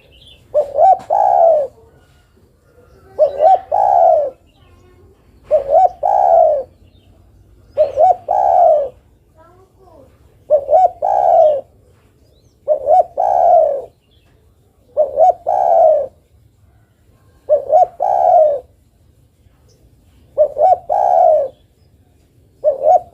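Spotted dove (derkuku) cooing: the same phrase ten times, about every two and a half seconds, each a quick short note or two and then a longer coo. It is given as a female's call to a male.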